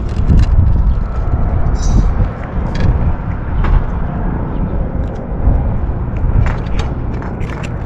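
Strong wind buffeting the microphone: a heavy, gusting low rumble, with scattered small clicks and ticks over it.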